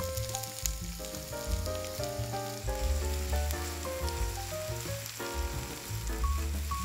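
Chopped onion sizzling and crackling in hot vegetable oil in a frying pan, over background music.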